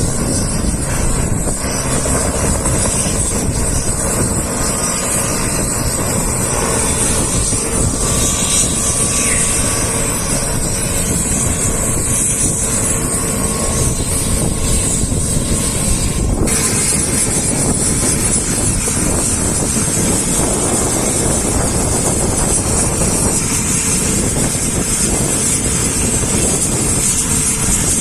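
Helicopter running close by: a steady rumble of rotor and engine with a constant high turbine whine over it, and wind buffeting the microphone.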